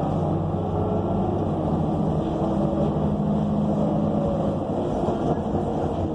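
Inside a city bus under way: the Cummins Westport ISL G natural-gas engine and drivetrain running steadily, with road noise. The engine's pitch shifts slightly about halfway through.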